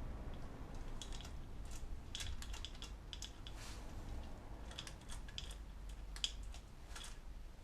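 Irregular light clicks and clinks of hand tools and small parts being handled, over a low steady hum.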